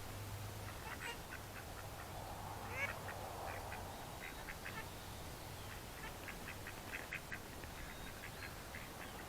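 Ducks quacking: many short, quiet quacks in irregular runs.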